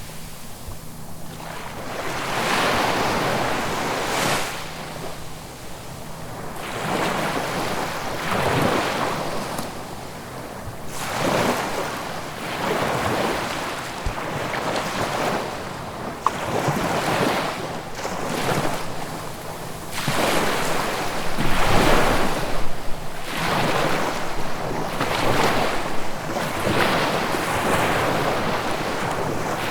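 Ocean surf: waves breaking and washing in, the rush of water swelling and falling back in repeated surges every two to three seconds.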